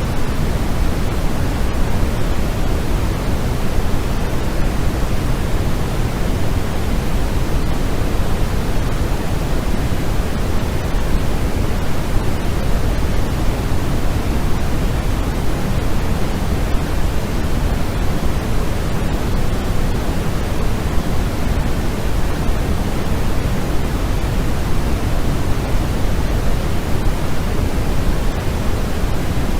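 Continuous sleep-aid white noise: an even, unchanging hiss, heavier in the low end than the top, with no rhythm or events.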